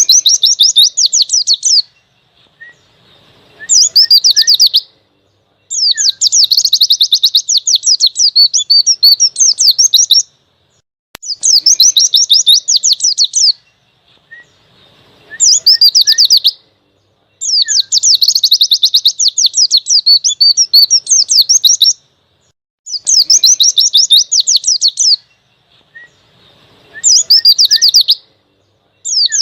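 White-eye (pleci) singing in the fast, busy wild-type 'ngalas' style: high, rapid twittering phrases lasting one to four seconds, repeated about eight times with short pauses and a few soft chips in between.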